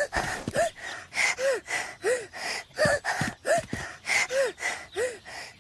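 A cartoon child's voice panting hard: short voiced gasps, roughly one every 0.7 seconds, with breathy in-breaths between, out of breath from running.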